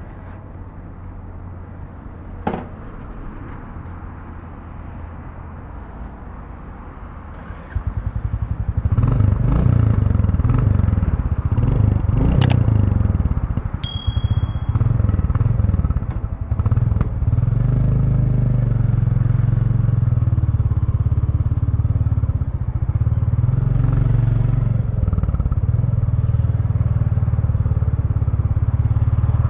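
2023 Royal Enfield Bullet 350's single-cylinder engine through its stock exhaust, idling at first. About eight seconds in it gets much louder as the bike moves off, the engine note rising and falling several times through gear changes, then running steadily.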